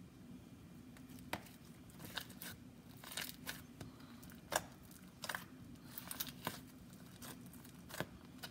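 Glossy, stretchy slime being handled and poked in its container, giving an irregular scatter of small sticky clicks and crackles.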